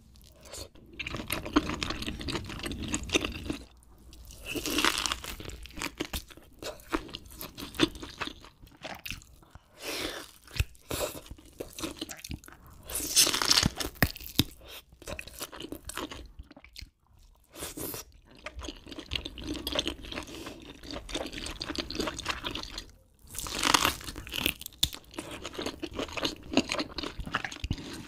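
Close-miked eating sounds: biting and chewing grilled scallop meat in a spicy sauce, with many small irregular clicks and a few louder bursts.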